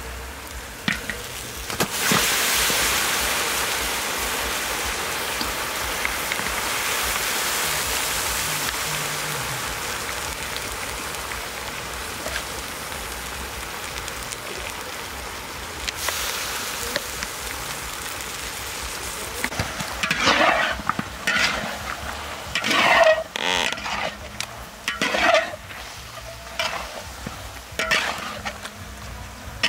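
Pork leg pieces sizzling in hot oil in a large wok: a loud hiss starts suddenly about two seconds in and slowly dies down. Later, a spatula scrapes and knocks irregularly against the wok as the meat is stirred.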